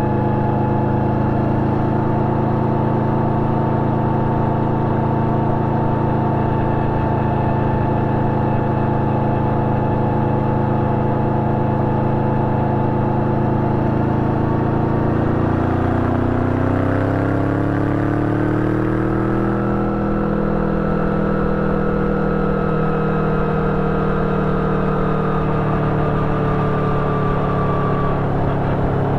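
Yamaha VMAX 1700's V4 engine running through an Akrapovic exhaust with dB-killer while riding, with wind and road noise. The engine holds a steady note, then rises in pitch over a few seconds about halfway through as the bike accelerates, and holds the higher revs, easing slightly down near the end.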